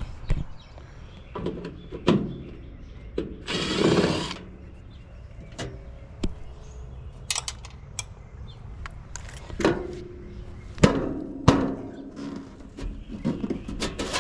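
Scattered clicks and knocks of tools and metal parts being handled on an air-conditioner condenser, with one short power-driver run about three and a half seconds in.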